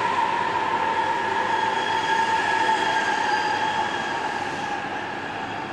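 JR East E657 series limited-express train moving along the platform at low speed, a steady whine over the running rumble that sinks slightly in pitch as it slows and fades after about four seconds.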